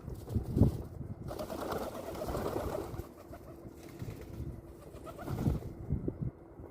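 Pigeons cooing in low, deep calls near the start and again about five seconds in, with about a second and a half of rustling between them.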